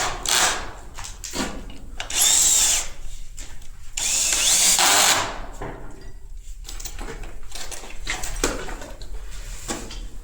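A handheld power tool runs in two short bursts, each about a second long, the second a little longer. Softer knocks and handling noise come between them, during PVC drainage pipework.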